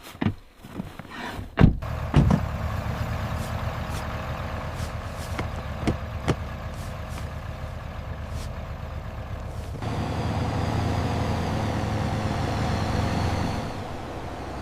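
A motor vehicle's engine running steadily after a few sharp knocks at the start. It grows louder for a few seconds near the end, then drops back.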